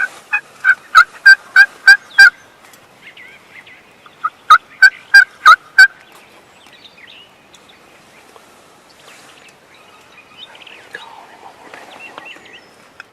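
Turkey yelping: two runs of loud, evenly spaced yelps, about three a second. The first run lasts about two seconds, and a shorter run follows a couple of seconds later.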